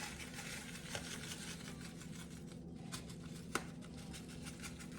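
A few faint clicks and taps of kitchen handling, with the sharpest a little after three seconds, over a low steady hum.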